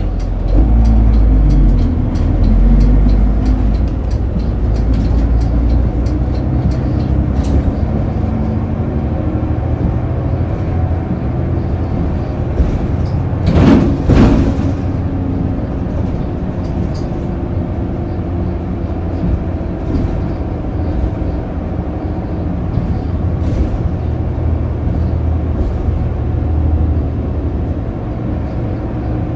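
Route bus heard from inside the cabin while driving: the diesel engine and drivetrain run steadily, rising in pitch through the gears in the first few seconds as the bus picks up speed. About halfway there is a brief, loud rush of noise.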